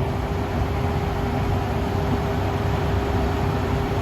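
Vehicle engine running with a constant mechanical hum during a single-line winch pull on a tractor stuck in mud.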